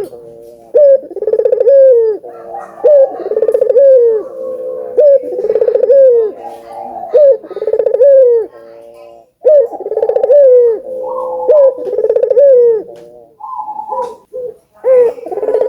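Puter doves (Barbary doves) cooing loudly, one rolling coo phrase after another with short pauses between, in the energetic calling that keepers call gacor.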